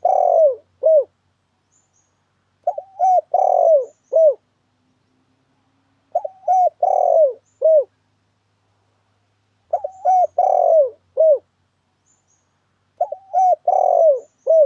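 Spotted dove (tekukur) cooing, played as a bird-trapping lure call: a phrase of a few short coos, a longer falling coo and a short final coo, repeated about every three and a half seconds. Each phrase opens with faint high chirps.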